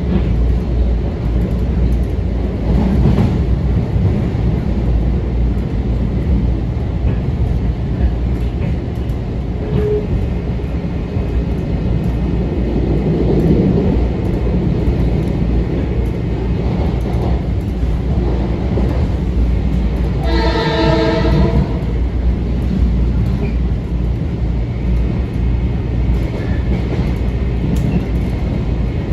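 Metro-North M7 electric train rumbling steadily and loudly, heard from on board. About two-thirds of the way in, a train horn sounds once for about a second and a half.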